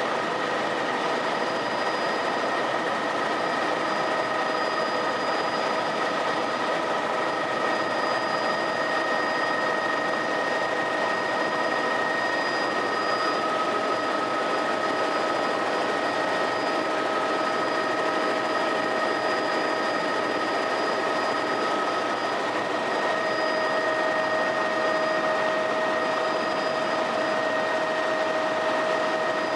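Helicopter heard from inside the cabin in flight: a steady rushing engine and rotor noise with a constant high whine layered over it.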